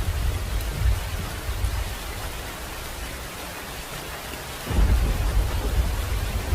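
Thunderstorm: steady hiss of heavy rain with low rumbling thunder. One roll of thunder dies away through the middle, and a new roll breaks in suddenly about three-quarters of the way through.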